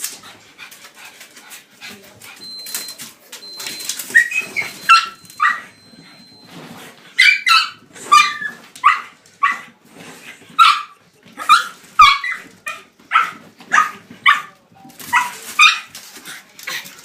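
A dog screeching and yelping in short, high-pitched cries about once a second while chasing a laser dot, after a few seconds of light clicking.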